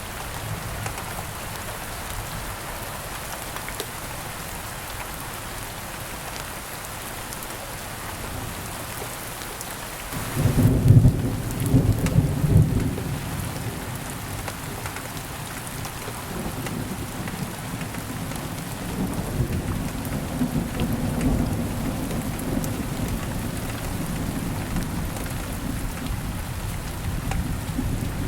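Steady rain falling. About ten seconds in, a loud clap of thunder breaks in and rolls on as a low rumble, fading over roughly the next ten seconds.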